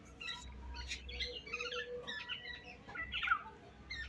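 Pet parrot chirping in a run of short, quick calls that sweep up and down in pitch.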